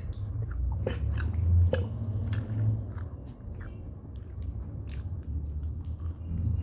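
A person chewing and biting food close to the microphone, chicken and white rice, with many short wet smacking clicks over a low steady rumble.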